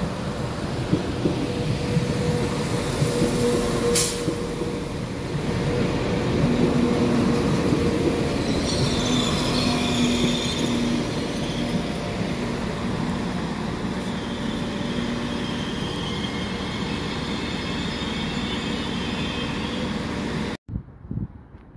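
Northern passenger multiple-unit train running along the platform: a steady rumble of wheels on rail with squealing tones from the wheels and brakes. There is one sharp click about four seconds in, and the sound cuts off abruptly near the end.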